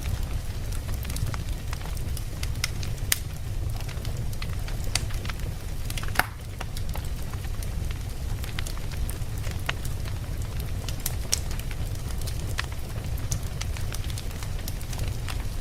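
Campfire burning: wood crackling with scattered sharp pops over a steady low rumble, the loudest pop about six seconds in.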